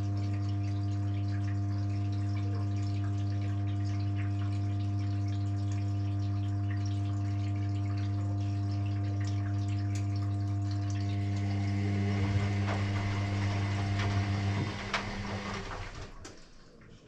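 Electrolux EW6S404WU washing machine pump humming steadily with water rushing through it. About three-quarters of the way in the water noise gets rougher, then the pump stops and the sound dies away.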